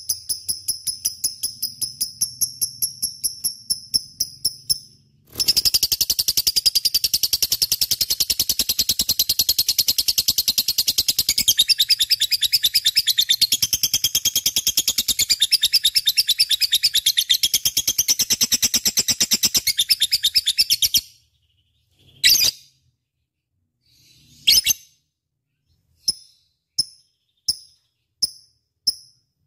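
Lovebirds calling: a fast run of high repeated chirps, then from about five seconds in a dense, unbroken high chatter lasting some fifteen seconds. After it stops come a couple of single calls and a run of short chirps, about one and a half a second.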